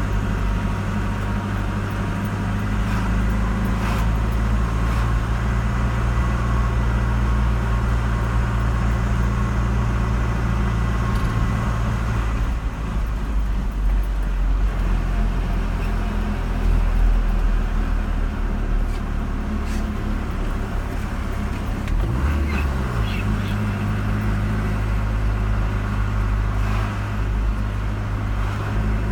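Car driving on a road: a steady low engine hum with tyre and road noise. The engine note changes about twelve seconds in and again a little past twenty seconds.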